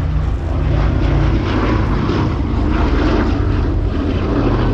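Boeing B-17 Flying Fortress in flight, its four Wright Cyclone radial piston engines running steadily.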